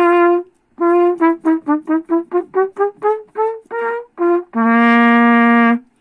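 Trumpet played to test its freshly repaired valves: a held note ends about half a second in, then a quick run of about a dozen short notes steps up in pitch, and a long, lower held note closes it near the end.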